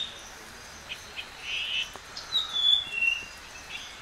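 Birds calling: a few short chirps and one brief falling whistle, over faint outdoor background noise.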